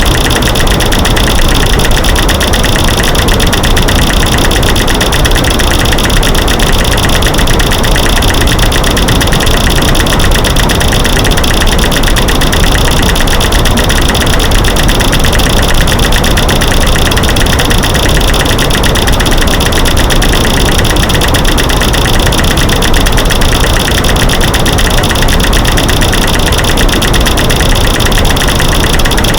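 Dense, rapid clicking and knocking over a white-noise hiss, steady and loud: a mix of light switches clicking, sticks snapping and rocks banging together.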